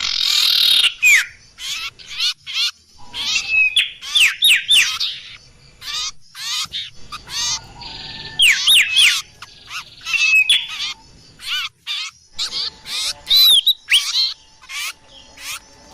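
Bird-lure (pikat) recording of small songbirds: a dense, fast run of sharp chirps, clicky notes and quick down-slurred whistles from several birds calling over one another.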